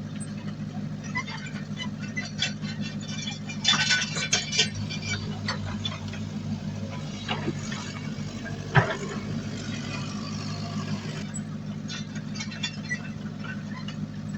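Diesel engine of heavy earthmoving machinery running steadily, with a burst of metallic clanking about four seconds in and one sharp knock near the middle.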